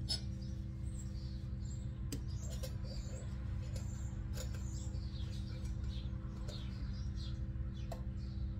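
Birds chirping in short repeated calls over a steady low hum, with a sharp click right at the start.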